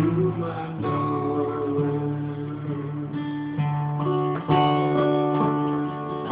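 Acoustic guitar played as an instrumental fill between sung lines, sustained chords with a new strum every second or so.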